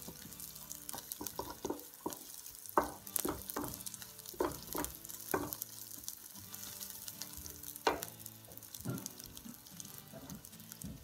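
Rice and chopped onion sizzling in butter in a frying pan, stirred with a wooden spatula that scrapes along the pan in repeated irregular strokes over a steady hiss. The rice is being toasted in the fat before any liquid goes in.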